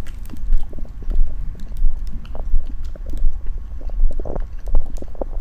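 Stomach and bowel sounds: irregular gurgles and short pops over a steady low rumble, the gut digesting during a meal.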